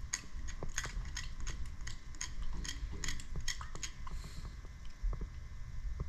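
Aerosol can of penetrating oil being shaken, its mixing ball rattling in quick clicks, about three or four a second.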